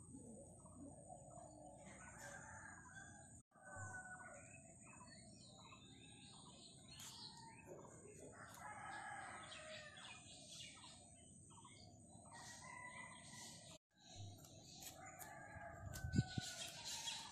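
Birds calling and chirping, a mix of short chirps and gliding calls. The sound cuts out abruptly twice, and there is a thump near the end.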